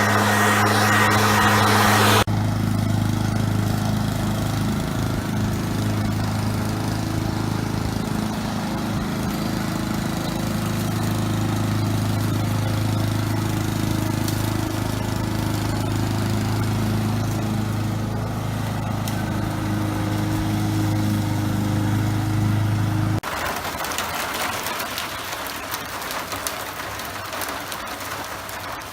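An engine running steadily at a constant speed for most of the time. It cuts off abruptly near the end and gives way to an even hissing noise; the first two seconds hold a louder engine sound with a thin high whine.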